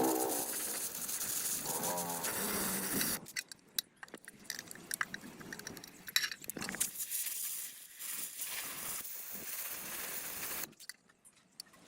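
A drawn-out pitched call in the first three seconds, then scattered sharp clicks and light metallic clinks.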